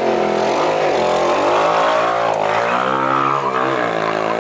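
Small engine of a Chinese minibike revving up and down as it is ridden, its pitch rising and falling several times.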